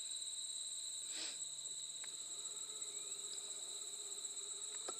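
Insects trilling steadily in a high, unbroken chorus, with a faint tick or two.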